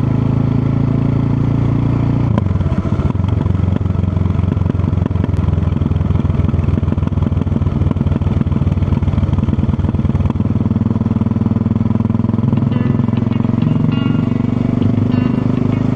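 Supermoto motorcycle engine running while riding, a steady low note that shifts about two seconds in and again about ten seconds in as engine speed changes.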